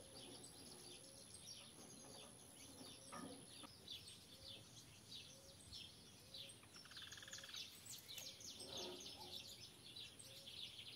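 Faint birdsong: many short high chirps from several birds, with a soft low note repeating at an even pace underneath.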